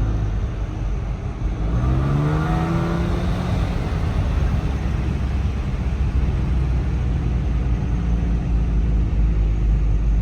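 Car exhaust droning and rumbling while driving, with a brief rising note about two seconds in as the engine picks up. The exhaust was damaged by running over a dead deer, and the owner suspects an exhaust leak, maybe from a bone piercing the pipe.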